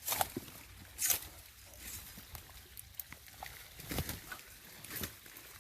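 Dogs digging at an animal's burrow in muddy ground: irregular scratching and scraping of earth, with a few sharper scrapes about a second in and about four seconds in.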